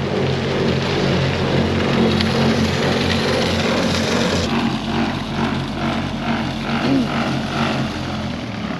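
A vehicle engine running steadily under a dense hiss. About halfway through the sound changes abruptly, and a pulsing of roughly three beats a second comes in.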